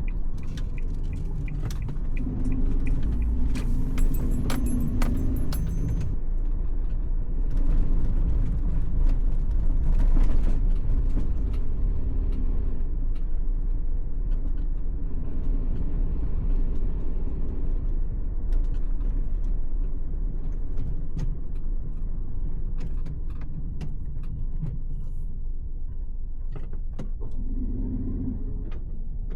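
Car driving, a steady low rumble of engine and road noise with scattered small rattles and clicks.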